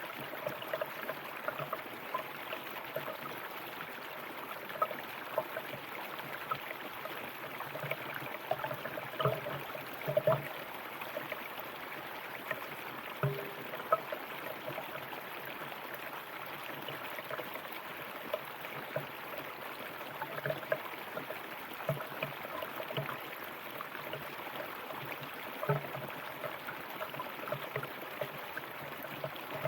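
River water running and gurgling over rocks, a steady rush with frequent small splashes.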